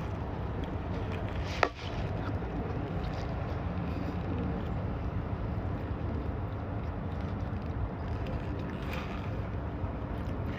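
Steady background noise with a low, even hum underneath, and a single sharp click about a second and a half in.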